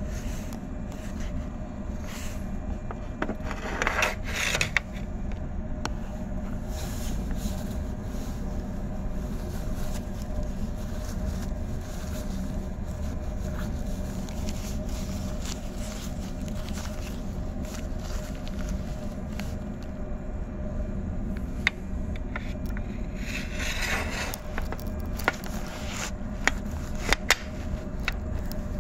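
Interior of a 113-series electric train standing in the station before departure: a steady low hum from the car's equipment, with a faint steady whine above it. Brief scraping noises come about four seconds in and again about twenty-four seconds in, and a few sharp clicks follow near the end.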